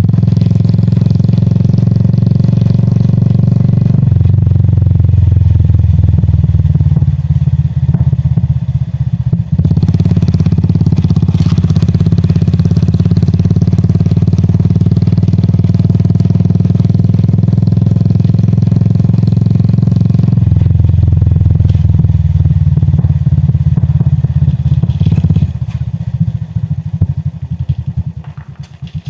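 Royal Enfield Classic 350's single-cylinder engine and exhaust running under way, with a deep steady thump that shifts with throttle changes several times. Near the end the rider eases off and the engine drops to a slower, separate thudding as the bike slows.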